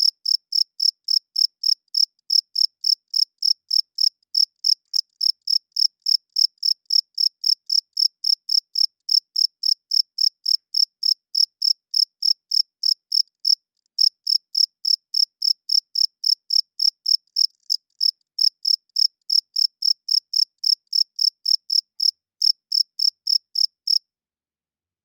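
Cricket chirping in a steady, even run of short high-pitched chirps, about three a second. It pauses briefly twice and stops near the end.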